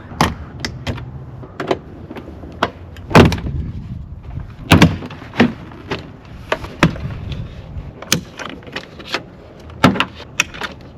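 Plastic door-card trim on a Subaru STI being unscrewed and pried loose by hand: a string of sharp clicks and knocks, with two louder snaps about three and five seconds in.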